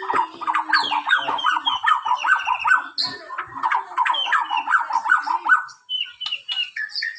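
White-rumped shama (Bornean murai batu) singing: a fast run of rapidly repeated chirping notes for about six seconds, then a few sparser, higher notes near the end.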